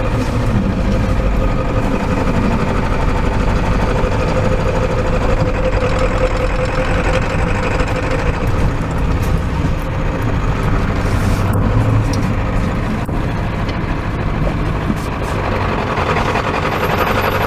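Pickup truck's engine running steadily with a low rumble.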